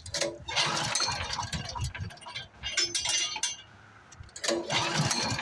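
Metallic clinking and rattling in three bursts, about a second and a half apart.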